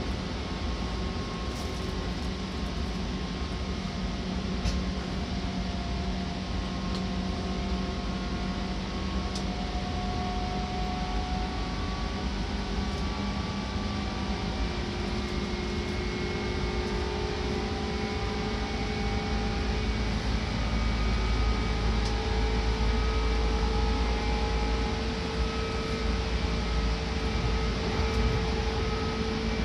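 Seibu Red Arrow limited express heard from inside the passenger car while running: a steady rumble and rolling noise with several motor and gear whines that slowly rise in pitch as the train gathers speed, growing a little louder in the second half.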